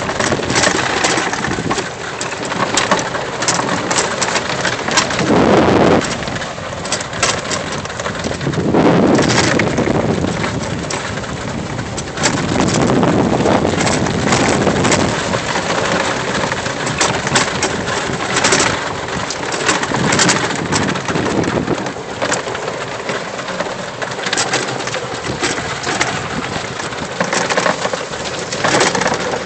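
EZGo golf cart riding over a rough trail: a steady, noisy rumble that swells and fades, with many rattles and knocks from loose things bouncing around in the cart.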